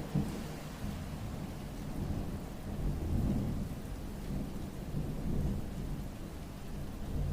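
Steady rain falling, under a low rolling rumble that swells twice, about three and five and a half seconds in.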